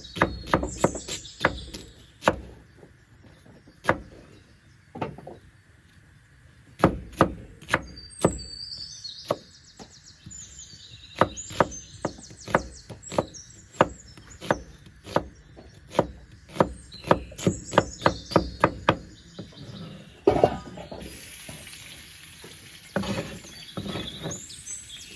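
A blade chopping on a wooden board, with runs of sharp strikes at about two or three a second, broken by short pauses.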